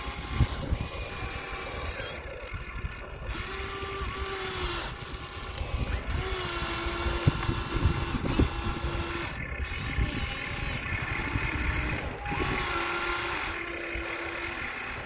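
Electric motors and gearboxes of radio-controlled toy excavators whining as they start and stop in short runs, over gritty scraping and crunching.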